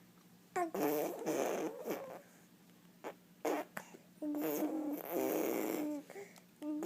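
A young child blowing wet raspberries through the lips: two long spluttering bursts of about a second and a half each, with a few short blips between them.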